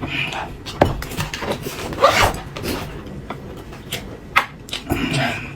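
Tableware and food being handled at a meal: scattered knocks and clinks with short rubbing, scraping sounds in between.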